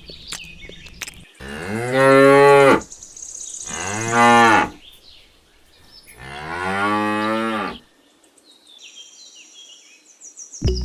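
Cow mooing three times, each moo a long low call.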